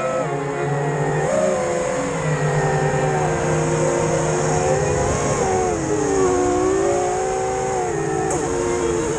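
FPV quadcopter's electric motors whining, their pitch rising and falling smoothly as the throttle changes.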